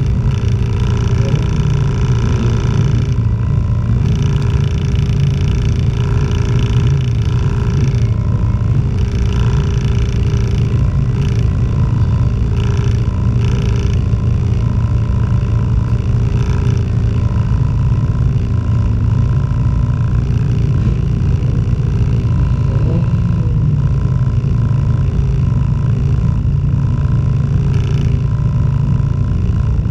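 A banger racing car's engine running steadily at idle, heard from inside the stripped-out cabin while the car waits on the grid.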